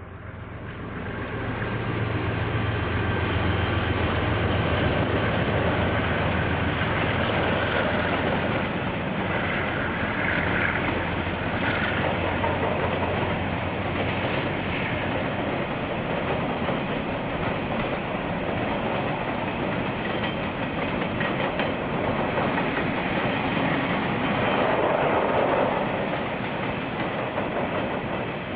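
A KiwiRail diesel-hauled train passing close by, heard through a security camera's microphone. The low hum of the locomotive engine comes up and fades out about halfway through, while the steady rolling clatter of the wagons carries on. A couple of brief higher tones sound about ten seconds in.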